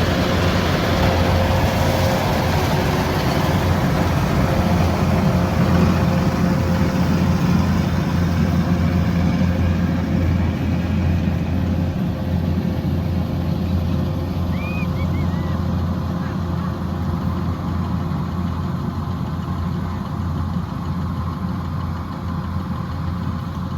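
Combine harvester running steadily, its engine hum and threshing machinery drone slowly fading.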